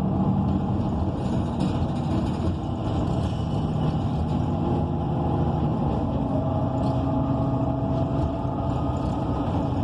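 A 2014 ENC EZ Rider II bus running under way, heard from inside the cabin: the Cummins Westport ISL G natural-gas engine and Allison B300R automatic transmission. The engine note is steady, with its pitch slowly shifting and rising a little past the middle.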